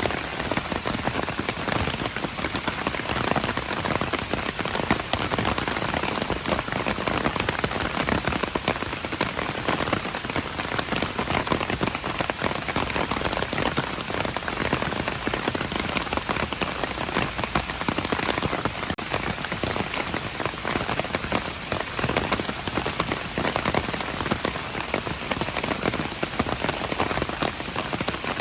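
Steady rain falling and pattering on hard surfaces, a dense, even hiss of many drops.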